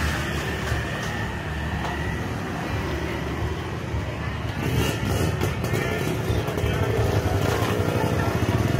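Street traffic: motor vehicle engines running close by with a steady low hum, and voices mixed in from about halfway through.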